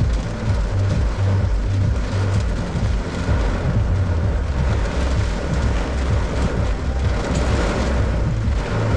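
Heavy pouring rain: a dense, steady hiss of a downpour with a strong, uneven low rumble beneath it.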